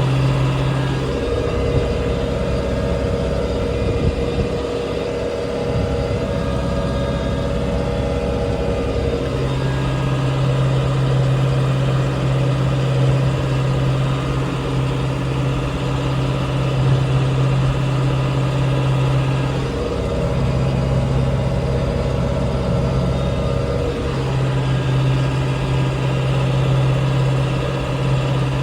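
Tractor engine running steadily. Its tone shifts several times, about a second in, around nine seconds, around twenty seconds and around twenty-four seconds.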